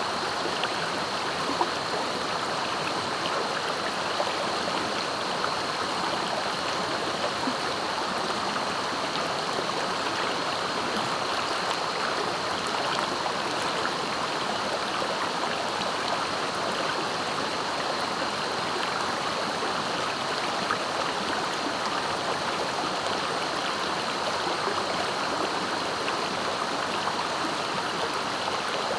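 Clear, fast-flowing river water rushing steadily over its bed, with small splashes here and there.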